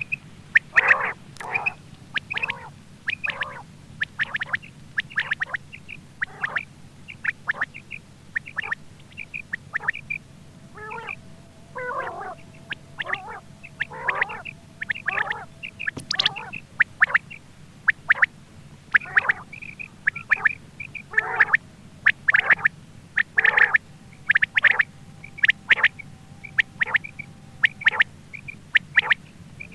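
Quail calling over and over: short, sharp calls repeated about one or two a second, over a faint steady hum.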